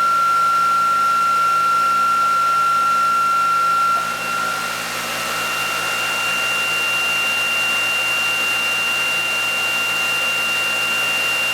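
Small electric motor running with a steady high whine over a whooshing hiss. About four seconds in the level dips briefly and the whine shifts to a higher tone, which then holds.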